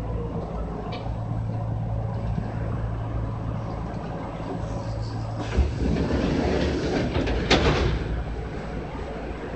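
Interior running noise of a Kintetsu 6413 series electric train: a steady low hum and rolling noise. About halfway through it grows louder and rattly for a couple of seconds, with two sharp knocks.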